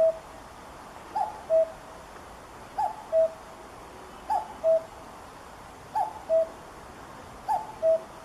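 Common cuckoo calling its two-note "cu-coo", a higher note followed by a lower, louder one, repeated about every one and a half seconds, six times.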